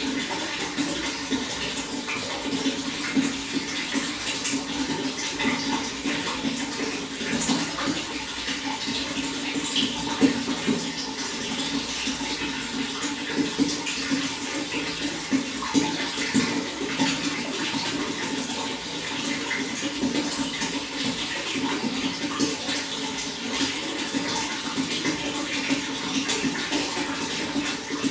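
Running water splashing and gurgling steadily, with many small splashes.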